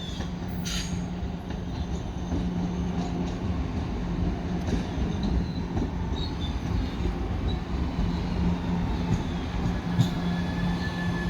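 Staten Island Railway electric train running, with a steady low hum throughout. A thin high whine comes in past the middle, and there is one sharp click about ten seconds in.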